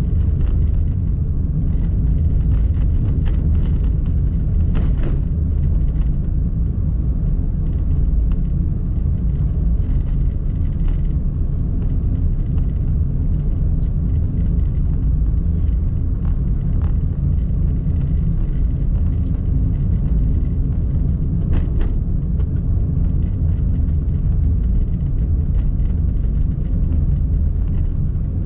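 Steady low driving rumble from a Honda N-BOX kei car on the road, engine and tyre noise together, with a couple of brief knocks.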